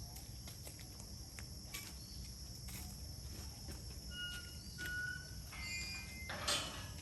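Outdoor farm ambience: a steady high insect buzz with a low rumble beneath, scattered soft clicks, and a few short bird whistles about four to six seconds in. A brief loud noisy burst comes near the end.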